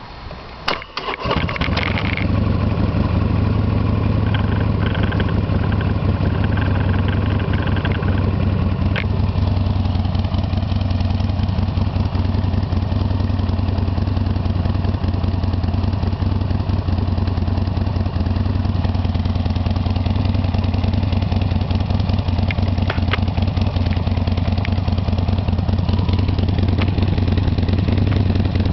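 2008 Buell XB12X's air-cooled V-twin cranked by the electric starter and catching about a second in, then idling steadily through an original Drummer exhaust with its dB killer insert fitted.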